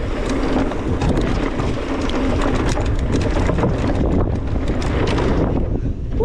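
Mountain bike rolling down a dirt trail: steady wind buffeting on the action-camera microphone over tyre noise, with frequent small clicks and rattles from the bike.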